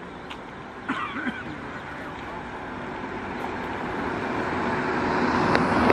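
A road vehicle passing close by: traffic noise that swells steadily and is loudest near the end. A brief voice-like sound comes about a second in.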